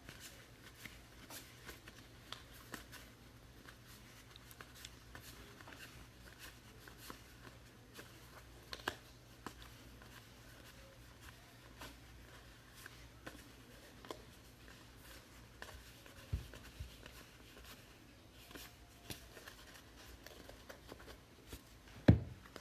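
Trading card packs and cards being handled close to the microphone: faint rustling of wrappers and cards with light, irregular ticks. Near the end comes one sharp thump, by far the loudest sound.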